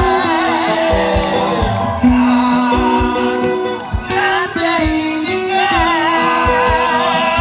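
A singer performing a Korean pop ballad over a backing track, the sung line wavering with vibrato over held keyboard chords and a steady bass-drum beat.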